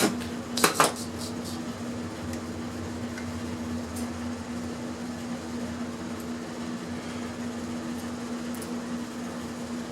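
A steady mechanical hum with one low tone, like a fan or appliance running, and a few sharp clicks and knocks about a second in from parts and tools being handled.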